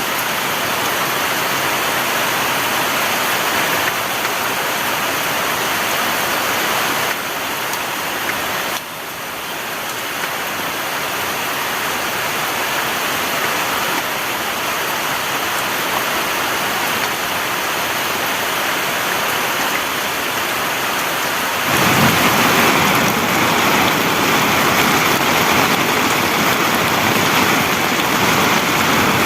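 Heavy rain pouring down as a dense, steady hiss. About three-quarters of the way through it abruptly gets louder and fuller, with a deeper rumble underneath.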